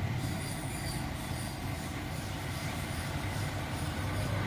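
Small CNC spindle running steadily with a 0.8 mm bit, milling down an iPhone X's A11 CPU chip: a continuous low hum with a faint high whine above it.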